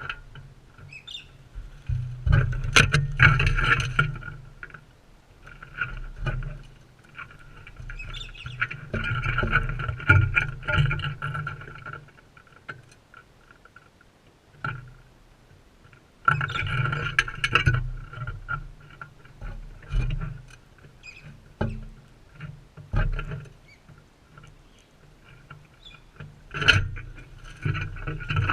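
Crimson rosellas scuffling and pecking at seed on a feeder close to the microphone, in irregular bursts of knocks, clicks and rustling.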